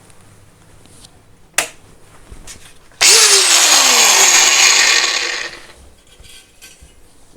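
Bosch GWS 750 angle grinder given a short no-load test run. It starts suddenly and runs loud for about two and a half seconds, then its whine falls in pitch as it winds down after switching off. A sharp click comes a second and a half before it starts.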